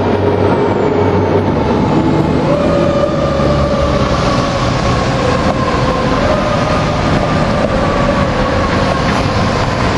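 Fire engine responding with its warning siren: a loud held tone that sags slowly in pitch and steps back up about two and a half seconds in, over the rumble of the truck's engine and road noise.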